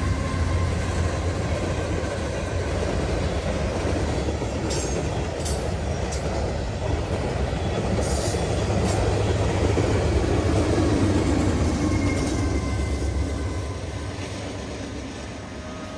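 Norfolk Southern freight train rolling past close by: a steady heavy rumble and rattle of wheels on rail, with a few brief high screeches around five and eight seconds in. The sound dies down near the end.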